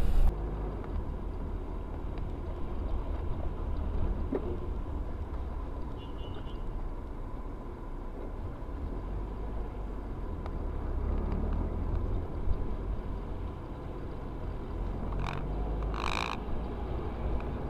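Steady low rumble of a car heard from inside its cabin, with a couple of brief faint sounds near the end.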